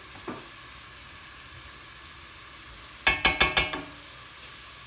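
Onions and water sizzling in a stainless steel pot, a steady hiss. About three seconds in comes a quick run of five or so knocks of a wooden spoon against the pot.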